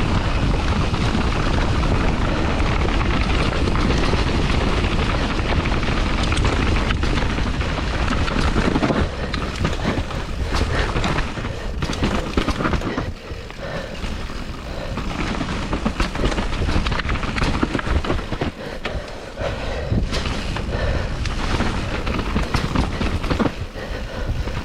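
Mountain bike riding a rough downhill trail: wind rushing over the microphone, with frequent knocks and rattles from the bike over bumps. The noise is steadier for the first half, then more broken and uneven.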